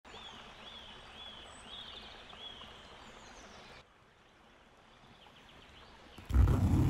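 A bird calling over and over, about six short arched chirps evenly spaced, over a steady outdoor hiss. About four seconds in the sound cuts to a quieter hiss with faint chirps, and loud music starts near the end.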